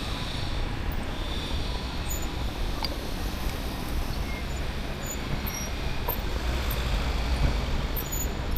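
Wind blowing across the microphone of a moving e-bike, a steady rushing with a deep, uneven buffeting underneath, mixed with the hiss of tyres on the road.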